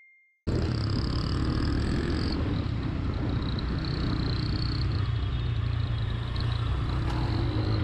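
Motorcycle riding in traffic, its engine running steadily under wind and road noise on the camera's microphone. The sound cuts in abruptly about half a second in, after a brief silence.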